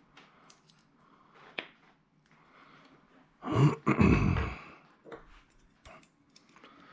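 A few light clicks, then about three and a half seconds in a loud two-part throat sound from a person, lasting about a second.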